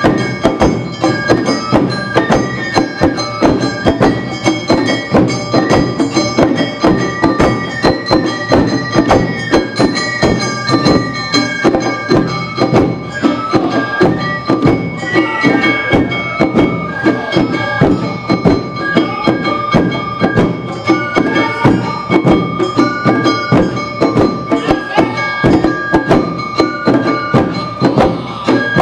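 Awa Odori narimono ensemble playing: drums and a kane hand gong keep a quick, even beat under a high bamboo-flute melody.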